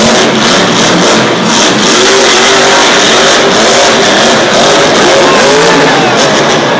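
Son-uva Digger monster truck's supercharged V8 revving hard and very loud, its pitch rising and falling again and again.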